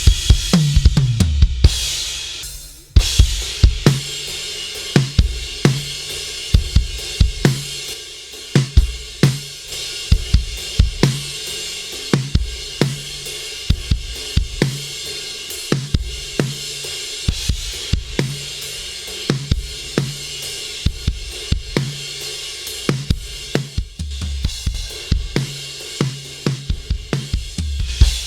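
Recorded drum kit playing a steady groove of kick, snare, hi-hat and cymbals, run through a Heritage Audio HA-609A diode-bridge compressor. About two seconds in the beat drops out as a low drum decays, then comes back in sharply just after three seconds.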